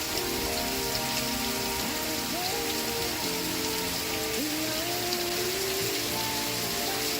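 Steady rain falling, an even hiss of many drops, with faint music from a television show underneath.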